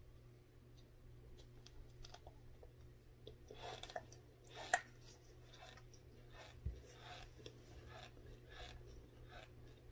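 Faint chewing of frozen corn starch: a run of small crisp crunches, about two a second, starting a few seconds in. A single sharp click midway is the loudest sound.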